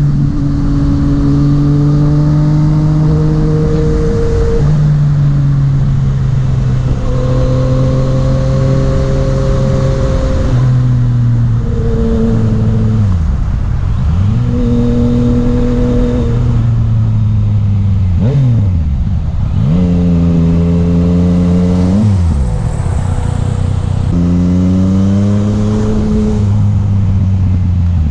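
Yamaha MT-09's three-cylinder engine under way, its pitch holding steady, then falling away and climbing again several times as the rider rolls off and changes gear, over a steady rushing noise.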